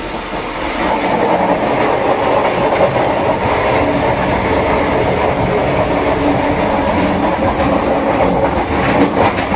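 Passenger train running, heard from inside the carriage by the door between cars: a loud, steady rumble of wheels on the rails that grows louder about a second in.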